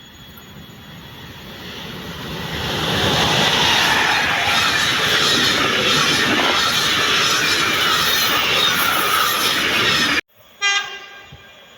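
A train passing at speed: wheel and air rushing noise builds over the first few seconds and then holds loud and steady. It cuts off abruptly near the end, followed by a short blast of a train horn.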